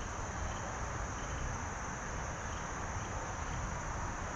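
Insects trilling in a steady, high-pitched chorus, over a low, even outdoor rumble.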